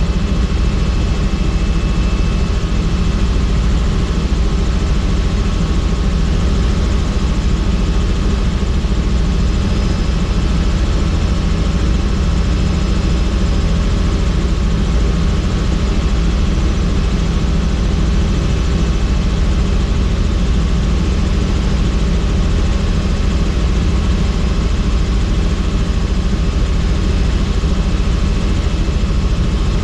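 Helicopter in flight, heard from on board: a loud, steady drone of engine and rotors, unchanging throughout, with a deep low end and a constant hum of higher tones.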